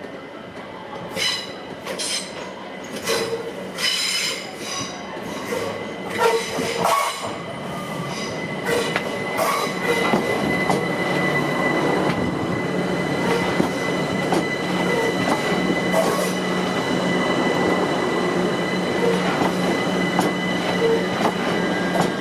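Train running through on the rails, its wheels squealing in short high screeches over the first several seconds, then a steady high whine and running rumble that grow louder as it comes closer.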